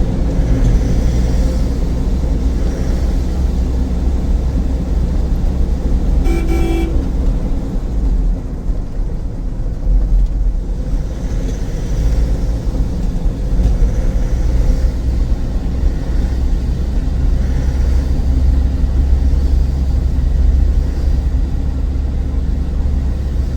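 Steady low road and engine rumble of a moving vehicle, with one short vehicle horn toot about six seconds in.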